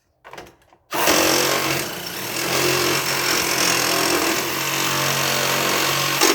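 Power tool cutting through the hard plastic dash shroud of a lawn tractor, starting about a second in, running steadily at full speed for about five seconds, then stopping.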